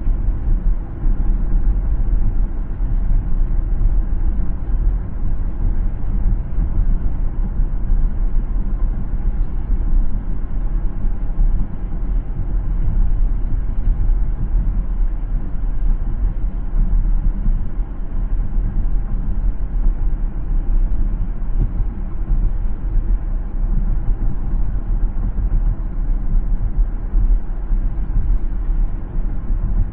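A car driving along a city road: steady low road and tyre rumble with engine noise.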